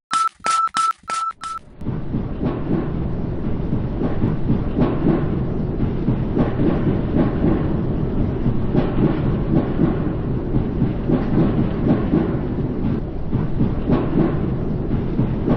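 Train running on rails: a steady rumble with rapid clattering of wheels on the track. It follows a run of electronic beeps, about three a second, that stop about a second and a half in.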